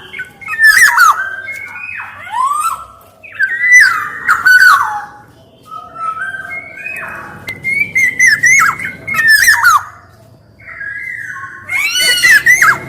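Black-naped oriole (kepodang) singing: short bursts of fluty, swooping whistles mixed with harsh, scratchy notes, about five phrases with brief pauses between them.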